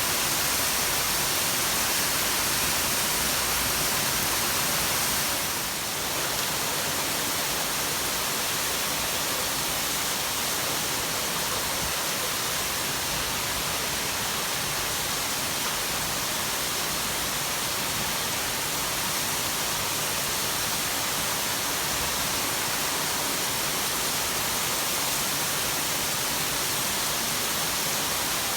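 Heavy downpour: dense, steady hiss of rain with no distinct drops standing out.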